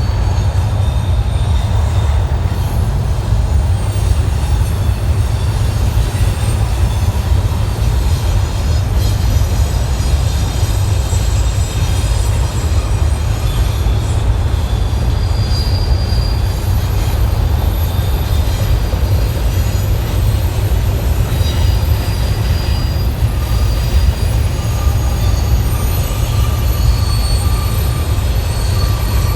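Freight train rolling past with a steady heavy rumble, its wheels giving short high-pitched squeals now and then.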